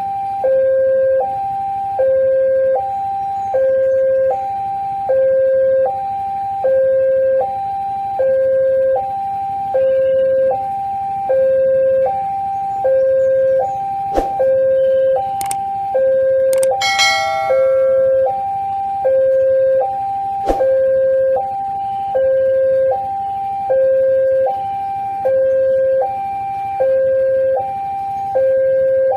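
Railway level-crossing warning alarm sounding: an electronic two-tone signal alternating steadily between a higher and a lower note, about one high-low cycle every two seconds, warning that a train is approaching and the barriers are down. A brief, bright horn-like tone cuts in about halfway through.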